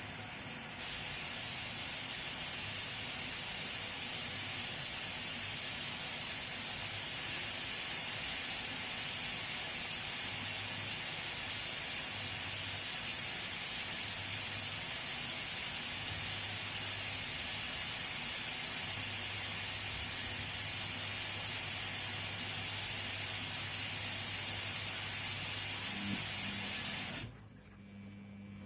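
Washing machine filling with water: a steady hiss of water spraying in through the inlet, starting suddenly about a second in and cutting off near the end, with a low hum coming and going beneath it.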